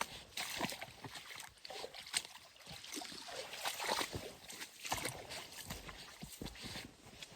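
Footsteps on the forest floor: an irregular run of crunches and rustles as someone walks.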